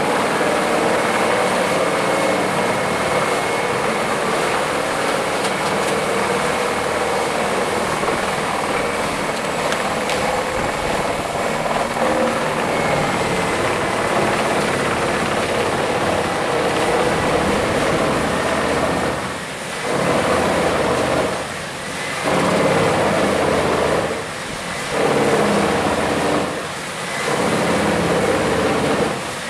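Wood chipper running under power: a steady engine and cutter drone with a thin high whine. In the last third the sound dips briefly about every two and a half seconds.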